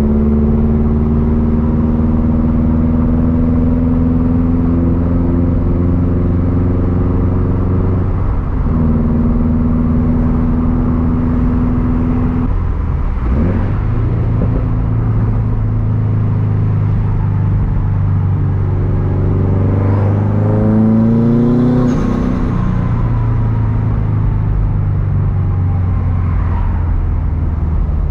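Turbocharged Subaru EJ257 flat-four running through a Tomei Expreme Ti unequal-length exhaust, loud, while the car is driven: steady cruising pulls broken by a couple of shifts, then a rev climb about twenty seconds in with a faint high turbo whine rising with it before the revs drop.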